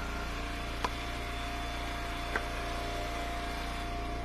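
Hydraulic wood splitter's engine running steadily at idle, with two short clicks about a second and a half apart.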